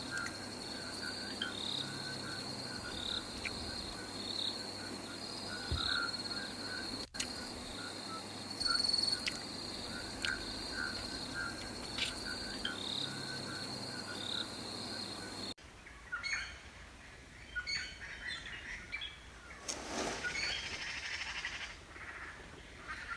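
Birds calling outdoors: repeated short chirps over a steady high-pitched drone. About fifteen seconds in, the background drops out abruptly, leaving scattered calls against a quieter background.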